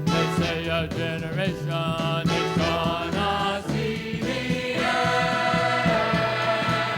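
Christian vocal group singing with instrumental backing, the voices moving through short phrases and then settling on a long held chord a little over halfway through.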